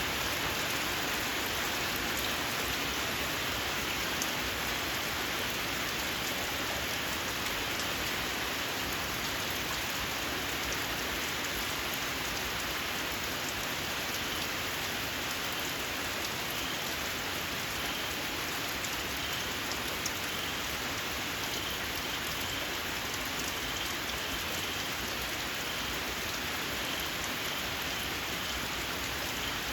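Steady, even rain falling. In the second half, faint, short, shrill chirps of small frogs repeat about once a second.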